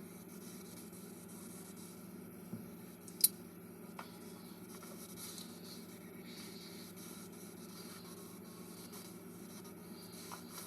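Steady low hum of room tone, broken by a few short clicks, the sharpest about three seconds in.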